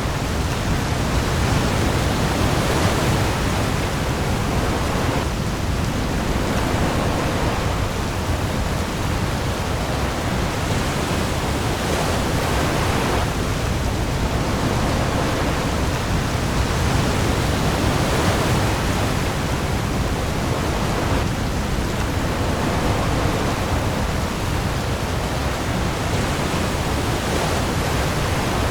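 Heavy rain falling on the open sea with waves: a dense, steady hiss that swells gently every few seconds over a deep low rumble.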